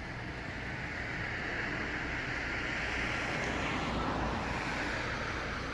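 Street traffic noise: a vehicle passing, its tyre and engine noise swelling and then falling away about four seconds in.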